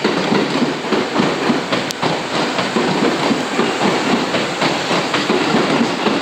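Seibu 30000-series electric train running along the track, with a steady rumble and wheels clicking over rail joints.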